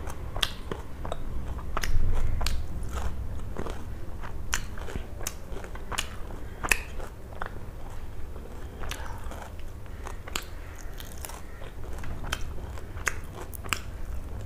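Close-miked eating: irregular crisp crunches and mouth clicks of someone chewing fried small fish and rice, over a low steady hum, with one louder dull bump about two seconds in.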